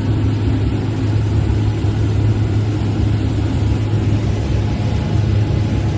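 Combine harvester running steadily while picking corn: a constant low engine hum under an even mechanical rush.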